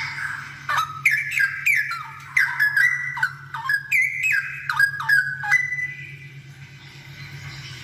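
Straw-headed bulbul singing one burst of rich, quick whistled notes that slide up and down, lasting about five seconds and ending on a short held note.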